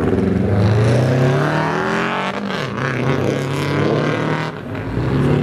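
A car engine being revved, its pitch climbing and falling several times, with a short drop in level near the end.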